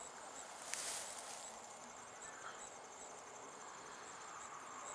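Faint, steady high-pitched chirping of insects such as crickets, with a brief hiss about a second in.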